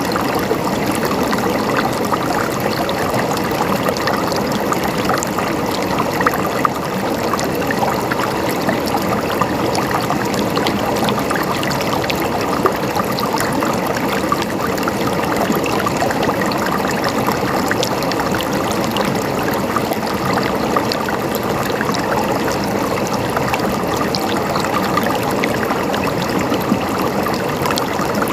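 Running water gurgling and splashing steadily, a continuous rush dotted with many small droplet splashes.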